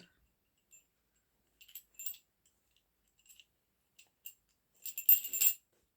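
A witch's bells door hanger of six small metal bells jingling softly, with scattered tinkles, as it is slipped into a small bag. A louder burst of jingling comes near the end.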